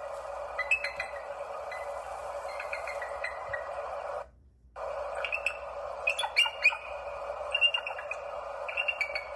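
Birds chirping, with many short high notes and quick repeated calls, over a steady hiss. Everything drops out for about half a second near the middle.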